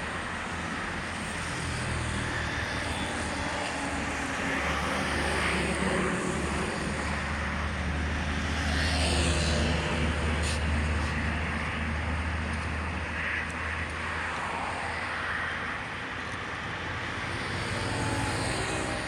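Steady rain and running floodwater, with a low engine rumble that swells and fades over about ten seconds, as of a vehicle passing.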